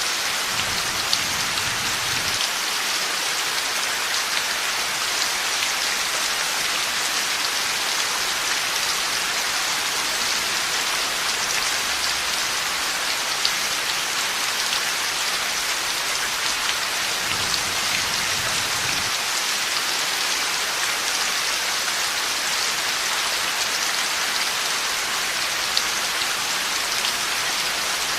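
Heavy steady rain pattering on a surface, with sharp drop ticks here and there. A faint low rumble of distant thunder comes twice, near the start and a little past halfway.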